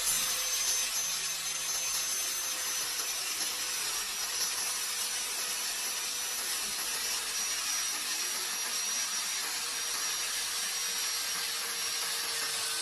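Electric disc cutter running steadily while cutting through acrylic sheet, a continuous grinding whine that sags slightly in pitch under the load of the cut.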